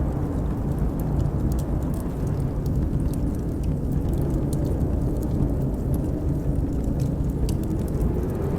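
Steady low rush of blizzard wind, with scattered sharp crackles and pops from a wood fire.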